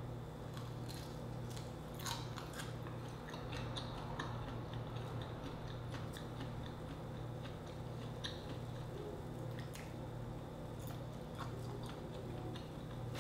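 Close-up chewing and biting of grilled shrimp and mushroom, with many short wet mouth clicks, over a steady low hum.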